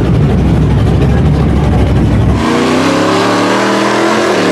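Mud truck engine running hard with a deep rumble, then an abrupt cut about two and a half seconds in to an engine held at steady high revs, its pitch dipping briefly near the end.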